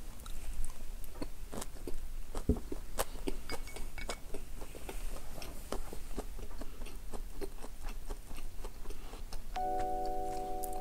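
Close-miked chewing of a mouthful of sushi: irregular wet mouth clicks and smacks. Near the end a bell-like mallet-percussion music jingle starts.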